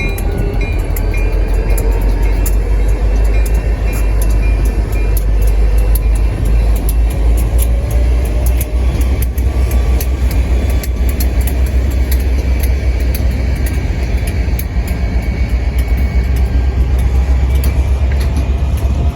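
Ballast train rolling by: a steady low rumble with frequent sharp clicks of wheels over the rail joints, and a faint whine rising in pitch over the first few seconds as the train pulls away.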